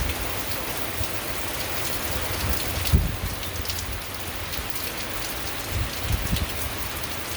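Heavy downpour of rain falling steadily, a dense even hiss, with a few low thuds, the loudest about three seconds in.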